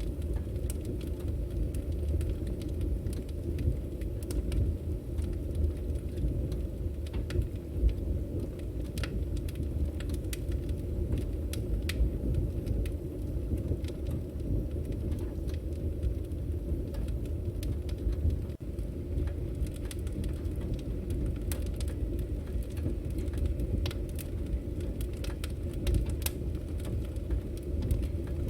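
Firewood burning: a steady low rush of flames with frequent, irregular sharp crackles and pops from the logs.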